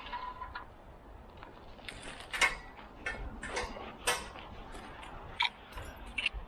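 Metal tree-climbing hardware clinking and knocking as ropes are handled, with a handful of sharp clinks, two of them ringing briefly near the end. Low wind rumble on the microphone underneath.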